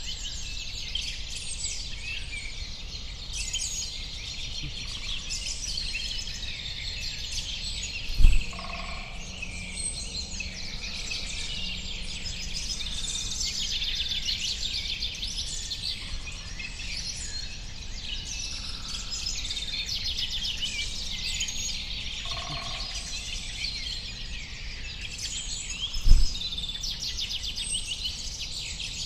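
A dense chorus of many small birds chirping and twittering without pause, with a few lower calls mixed in. Two brief low thumps stand out, about 8 seconds in and again near the end.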